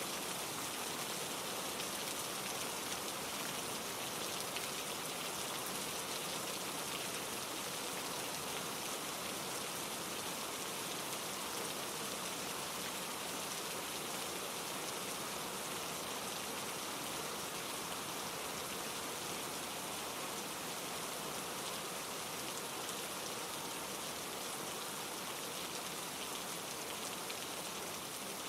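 Steady heavy rain falling through trees, an even, unbroken hiss of countless drops, blended with a mountain stream tumbling over rocks.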